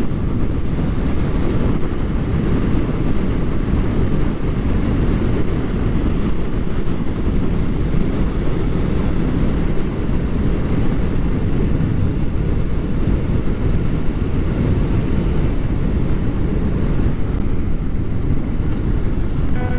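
Kawasaki Ninja 400's parallel-twin engine running at a steady cruise, mostly buried under a steady low rush of wind on the helmet-mounted microphone.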